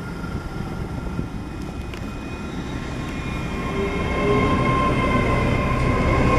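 Great Western Railway Class 802 bi-mode train departing and passing close by, its rumble growing steadily louder as it gathers speed, with a steady whine rising in strength in the second half.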